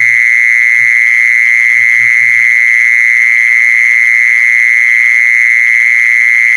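Mole cricket (jee-sorn) calling: one loud, continuous high trill, steady in pitch and level throughout.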